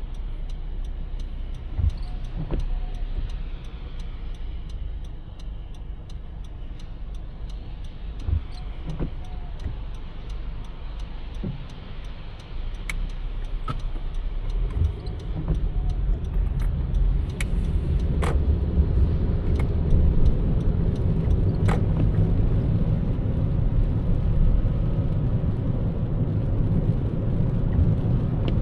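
Car driving on city roads: steady engine and tyre rumble that grows louder from about halfway through as the car picks up speed, with a few sharp knocks or clicks.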